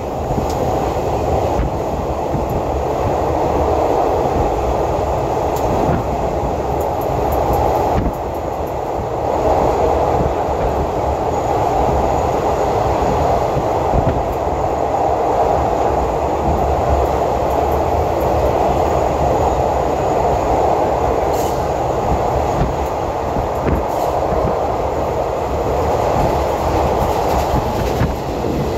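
Passenger train running at speed, heard from inside the carriage: a steady rumble and rush of wheels on rails.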